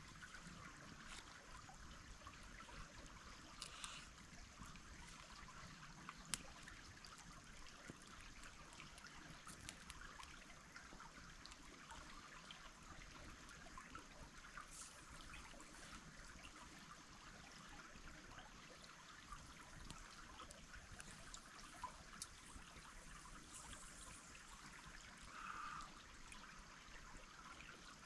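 Faint, steady trickle of a small stream, with a few faint clicks here and there.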